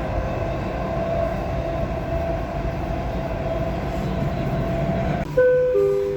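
Dubai Metro train running, a steady rumble with a held whine. About five seconds in the sound cuts to a chime of a few clear tones stepping down in pitch: the metro's door-closing warning chime.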